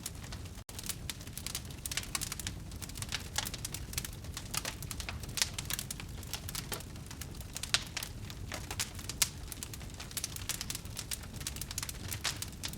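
Campfire wood burning, crackling with many small irregular pops over a low steady rumble, with a momentary dropout in the sound just under a second in.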